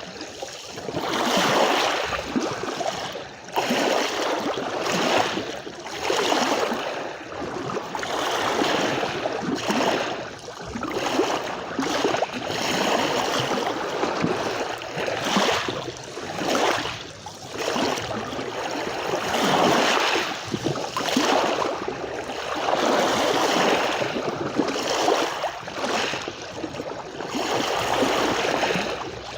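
Small sea waves washing and lapping on a shore, the wash surging and falling back every second or two.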